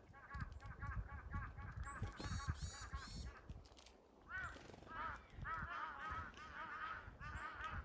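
A flock of birds calling in rapid, overlapping honk-like notes, with a short lull about four seconds in before the calling picks up again. Low rumbling runs underneath.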